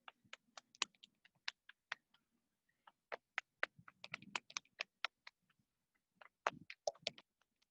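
Faint, uneven run of light slaps and taps from open hands patting down the outside of the legs and up the inside, with two duller thumps near the end.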